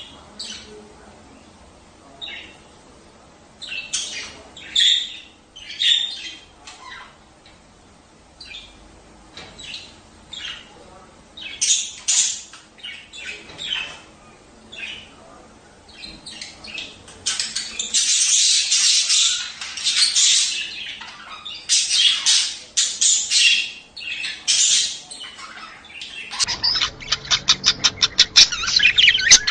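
Budgerigars chattering: short squawks and chirps, scattered at first, then denser and louder past the middle. Near the end comes a fast, even run of chirps.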